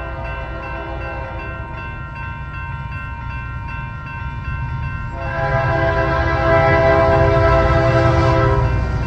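Union Pacific freight locomotive sounding its multi-chime air horn over the low rumble of the passing train; the horn grows much louder and fuller about five seconds in.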